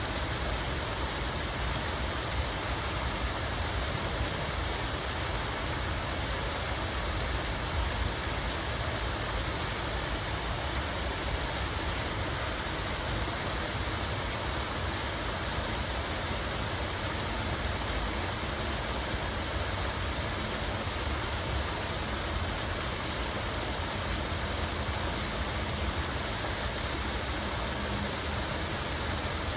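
Steady rush of falling water, an even hiss with a deep low rumble underneath.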